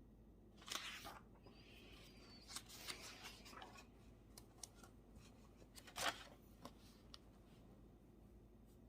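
Someone handling things at a study desk: a short rustle, a scatter of small clicks, then a sharper rustle and click about six seconds in, the loudest of them.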